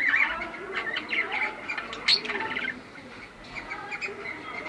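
Cockatiels chirping and squawking in a rapid series of short calls, busiest and loudest in the first half, with one sharp louder call about two seconds in.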